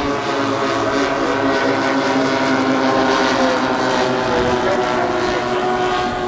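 Engines of a large radio-controlled four-engine warbird model in flight: a steady propeller drone with several overlapping engine pitches that waver slightly.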